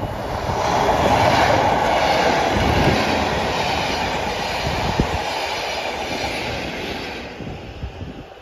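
Network Rail test train, driving trailer DBSO 9714 and Class 37 locomotive 37421, passing at speed: a steady rushing rumble of wheels on rail that swells in the first second and fades away near the end, with a single sharp knock about five seconds in.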